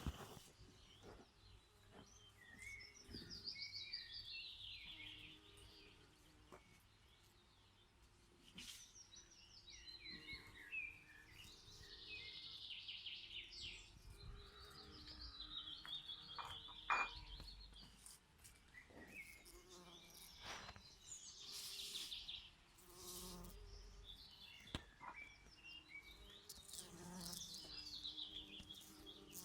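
Songbirds singing several phrases of falling, trilled song, over the faint buzzing of bees at flowers.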